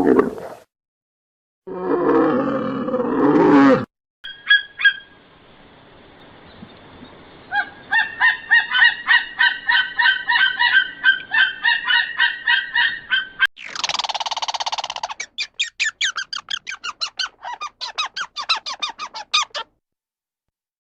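A run of separate animal calls. A brief low roar-like call comes first. Then a long series of short, pitched honking calls, a few each second, in the manner of geese or other fowl. Near the end come a harsh noisy burst and a fast string of short rattling calls.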